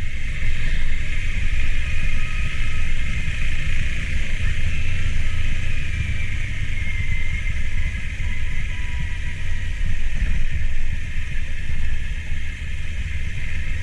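Two-cylinder motorcycle engine running steadily under load with a dense low rumble, a faint whine drifting slightly lower partway through.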